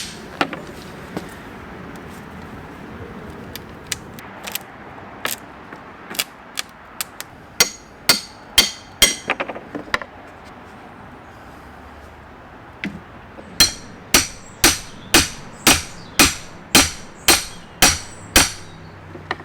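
Hammer blows on a wooden pallet, knocking it apart to free the slats: sharp strikes, a few scattered at first, then two runs of about two blows a second with a pause between them.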